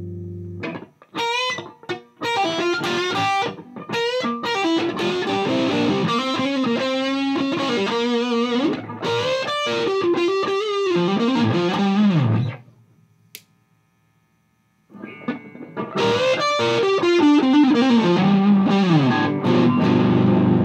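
Gibson Les Paul played through a Mesa Boogie Dual Rectifier tube amp set to 50 watts, with a distorted high-gain tone: short chugs, then a riff of single notes and chords that stops about twelve seconds in. After a pause of about two seconds a second riff starts and ends on a ringing chord.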